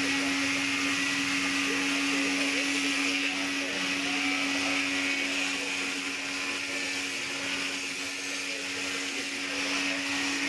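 A motor-driven machine running steadily, a constant hum with a hiss over it.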